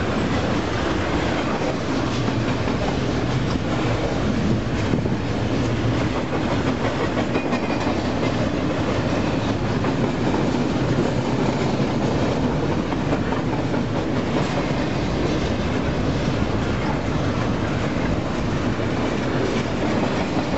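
Double-stack container train's well cars rolling past at close range: a steady, loud noise of steel wheels running on the rails, with clicking from the wheels.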